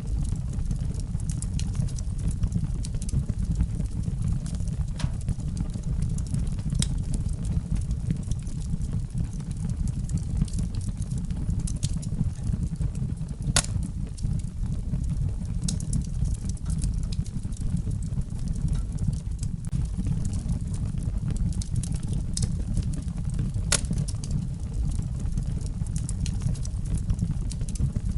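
Wood fire burning in a fireplace: a steady low rumble of flames with scattered sharp crackles and pops, a couple of them louder.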